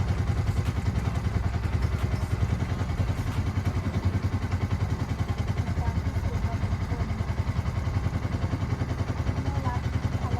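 Longtail boat engine running steadily at a constant speed, a fast, even low throb.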